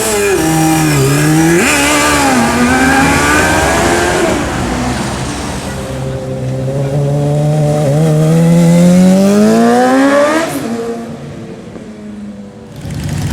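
Sport motorcycle engine revving and accelerating: the pitch dips and climbs over the first few seconds, then rises steadily to a peak and drops away, and it is quieter near the end.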